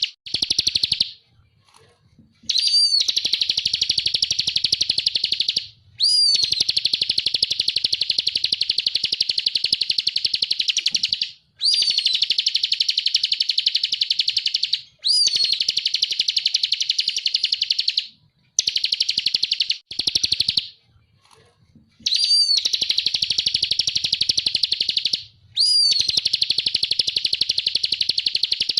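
Ciblek (prinia) singing its rapid buzzing 'ngebren' trill: a series of bouts about three seconds long, each opening with a short sweeping note and running into a fast, even rattle, with short pauses between bouts.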